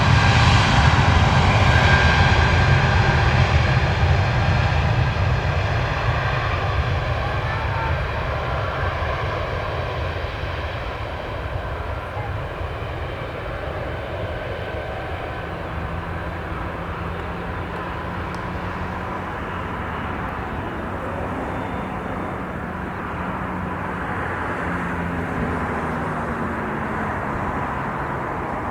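Jet airliner's engines at takeoff power, loud at first and fading over the first ten seconds or so to a steady, quieter roar as the aircraft climbs away.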